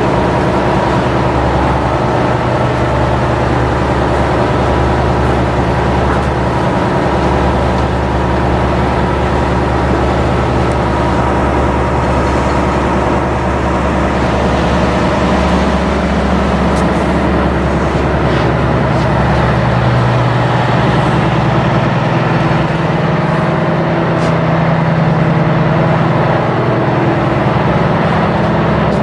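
Ship's diesel engine running at a steady speed: a loud, even machinery drone with a constant low hum.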